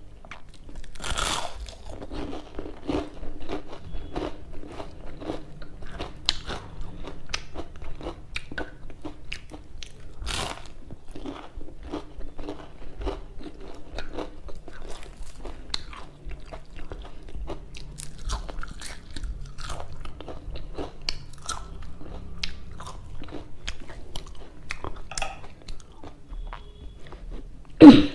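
Close-up eating sounds: a person biting and chewing crispy deep-fried chive fritters, with many short crunches and two louder bites at about one and ten seconds in. A single sharp knock near the end is the loudest sound.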